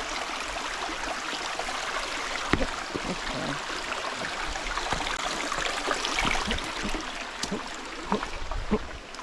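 Creek water running over rocks, with scattered short knocks and thuds, most of them in the second half, from someone stepping across the stones.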